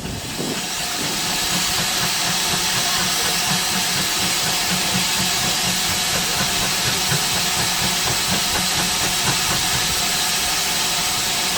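Steam venting from a steam engine: a loud, steady hiss that starts suddenly and builds over about the first second, then holds.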